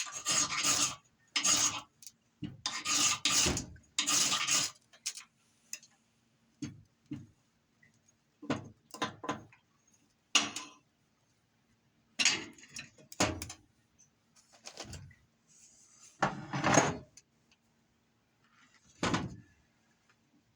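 A metal blade scraped hard over fatwood or a ferrocerium rod in short, sharp strokes: a quick run of strokes in the first few seconds, then single strokes spaced out.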